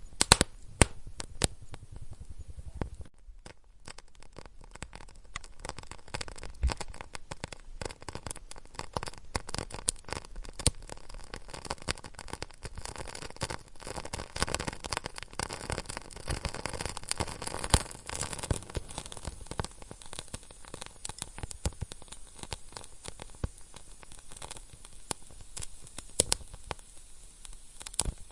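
Wood fire in a fireplace crackling, with many irregular sharp pops and snaps over a soft hiss and a brief lull about three seconds in.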